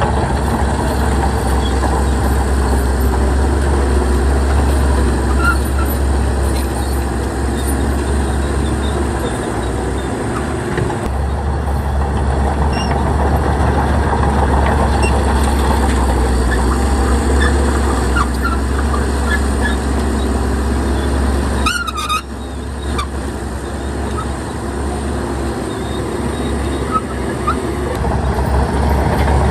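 Heavy diesel earthmoving machinery running steadily with a deep rumble, dipping briefly a few times. About 22 seconds in, a short high warbling squeal cuts through.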